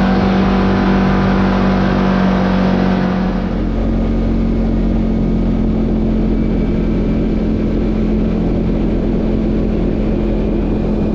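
Side-by-side UTV driving along a trail: a steady engine note with tyre and road rumble, the engine note easing and growing a little quieter about three seconds in.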